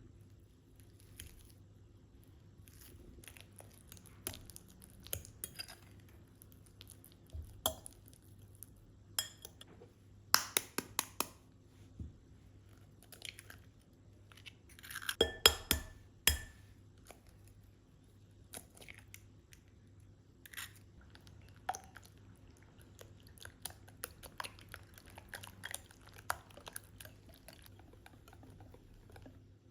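Scattered light clicks, taps and clinks of household objects being handled, over a faint steady hum. A louder flurry of clatter comes about halfway through.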